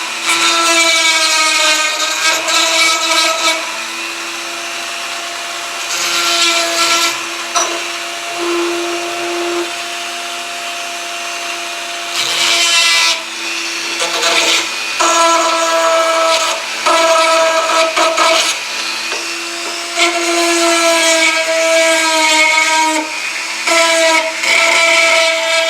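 Dremel rotary tool running with a steady high whine as it grinds and cleans up a lead toy figure. Its level drops and rises again several times as the work goes on.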